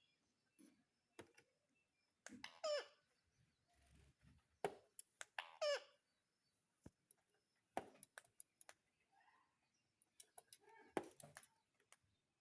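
Pet ringneck parakeet giving short calls, two clearer ones about two and a half and five and a half seconds in, between scattered sharp clicks and taps.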